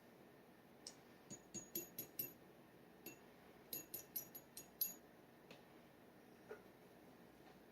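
Steel G nib of a dip pen tapping against a glass ink bottle: about a dozen quick, light clicks in two runs, each with a short high ring.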